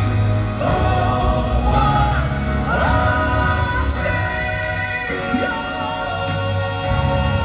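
Southern gospel male vocal quartet singing long held notes over live band accompaniment with a heavy, steady bass.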